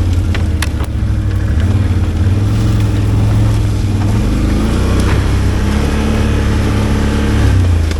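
ATV engine running steadily while riding, its pitch shifting slightly, with a few sharp knocks in the first second and another about five seconds in.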